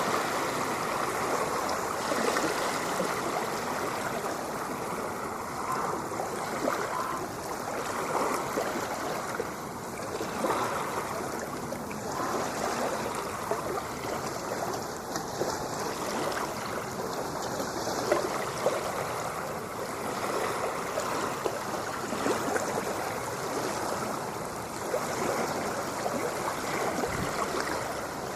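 Ocean water rushing and churning steadily, with small swells in loudness but no distinct breaking waves.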